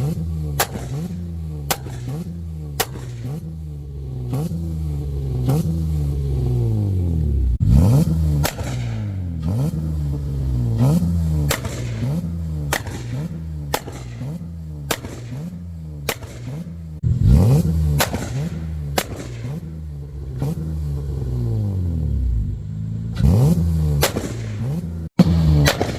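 Honda Accord 3.5-litre V6 revved over and over, about once a second, with a few longer revs, through a 2-step launch limiter. Its exhaust cracks and pops sharply as the revs fall, the anti-lag backfires that shoot flames.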